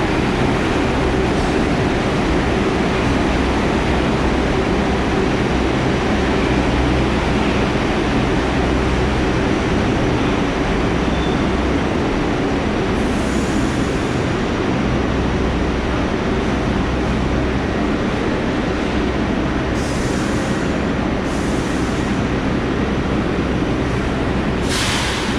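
New York City subway shuttle train pulling into the station: a steady rumble of wheels and traction motors, with a few short hissing sounds in the second half.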